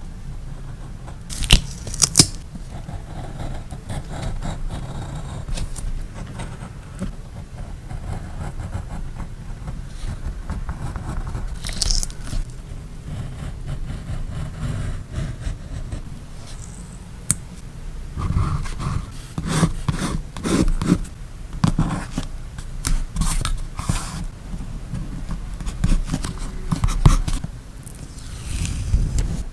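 Handling sounds of paper crafting on a journal page: paper, stickers and washi tape being scraped and rubbed, with a few sharp clicks in the first half and a run of taps and knocks in the second half, over a steady low hum.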